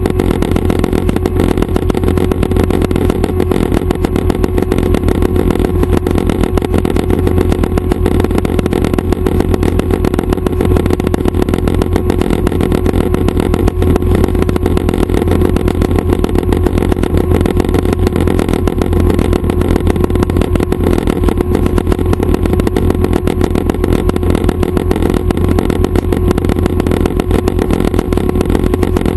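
Schweizer 269 light helicopter running: its four-cylinder piston engine and rotors make a loud, steady drone with a deep throb and a constant hum, unchanged throughout.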